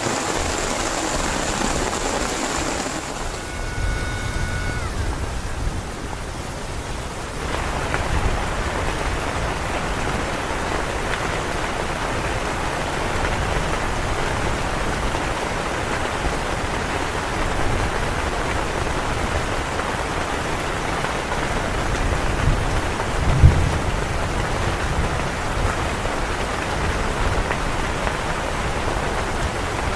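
Heavy rain falling steadily, with a low rumble underneath. A single sharp low thump comes about two-thirds of the way through.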